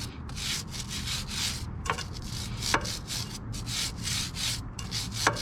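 Stiff-bristled brush scrubbing a motorcycle chain in quick back-and-forth strokes, about two to three a second, with a few sharp clicks.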